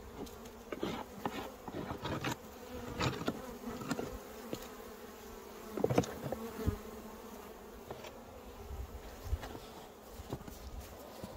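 Honeybees buzzing steadily at the hive, with scattered knocks and scrapes from the hive being handled, the loudest about six seconds in.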